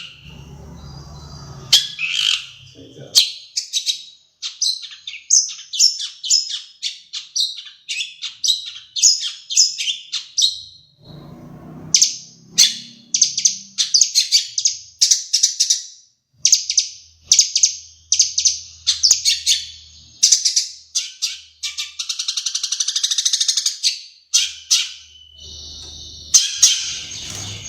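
Long-tailed shrike (cendet) singing in rapid phrases of sharp high chirps and harsh notes, a mimicry medley that includes sparrow calls; about three-quarters through it gives a buzzy rattling trill.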